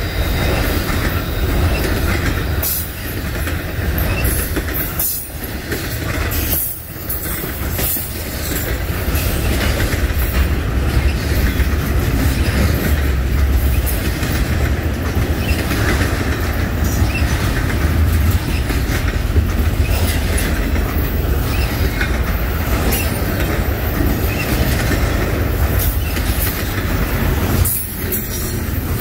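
Double-stack intermodal well cars rolling past: steady loud wheel-on-rail rumble with repeated clicks of the wheels over the rail joints.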